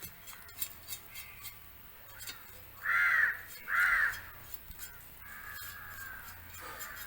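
A crow cawing twice in quick succession, two loud harsh calls about three seconds in, with a few faint clicks around them.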